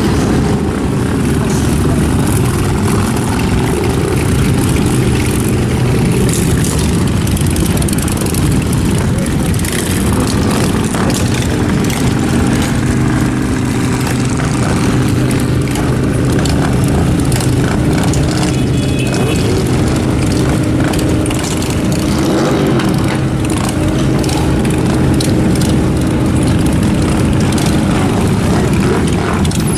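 Engines running steadily, a constant low hum of several tones under a haze of mechanical noise.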